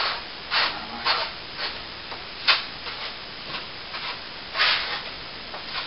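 A hand tool scraping against a plaster wall in short, irregular strokes, with a single sharp click about two and a half seconds in and a longer stroke near the end.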